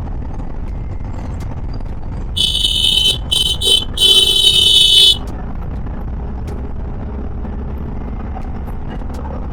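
A vehicle horn honks four times over steady riding and wind noise: a long blast, two quick toots, then the longest blast. The horn blasts are the loudest sound.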